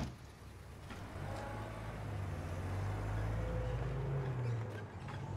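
A stretch limousine's engine pulling away: a low engine drone that starts about a second in and grows steadily louder.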